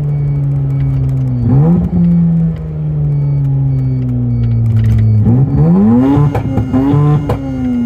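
Mazda RX-7 FC3S's naturally aspirated, half-bridge-ported 13B rotary engine revving as the car is driven. A quick blip of revs comes about a second and a half in, then the revs fall slowly for a few seconds. About five seconds in it accelerates hard, with a short dip in revs near six seconds, like a gear change, before climbing again.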